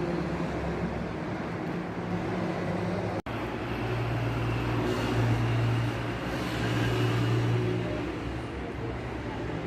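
Road traffic with a heavy vehicle's engine, a bus or truck, humming past. The hum swells from about four seconds in and fades near the end. A brief dropout about a third of the way in marks a cut.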